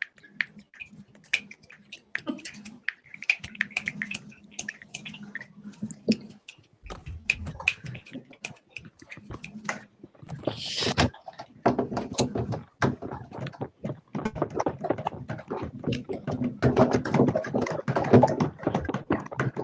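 Many people's hands making a rainstorm sound together over a video call: scattered finger snaps, taps and pats like raindrops, growing denser and louder from about twelve seconds in as the rain builds.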